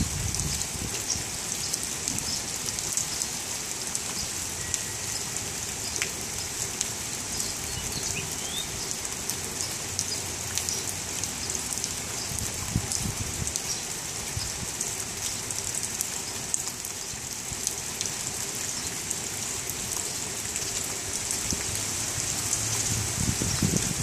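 Steady rain falling on leaves and wet ground. It makes an even hiss full of separate drop ticks, with low rumbles that come and go and swell near the end.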